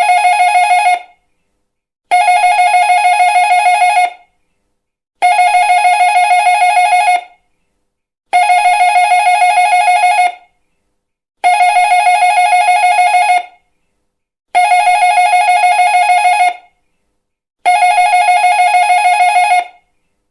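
Electric doorbell ringing with a fast trilling ring, in repeated rings about two seconds long with a second's pause between them: six full rings, plus the tail of one at the start.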